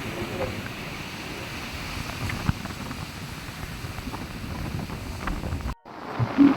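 Wind buffeting the microphone over the steady wash of ocean surf on a beach; the sound cuts out abruptly for a moment near the end.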